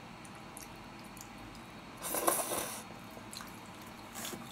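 Close-miked chewing and mouth sounds of someone eating: one short, louder burst about two seconds in and a smaller one near the end.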